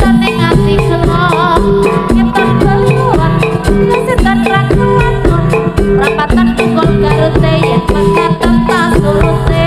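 Jaranan dance music through a sound system: drums and pitched gamelan-style percussion in a steady repeating pattern, with a wavering melodic line above, played loud.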